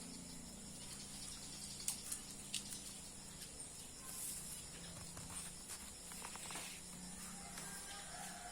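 Faint small clicks and rustles of a dog nibbling through another dog's fur with its teeth, as if picking out lice: a few sharp clicks about two seconds in and a looser run of clicks in the middle, over a steady low hum and hiss.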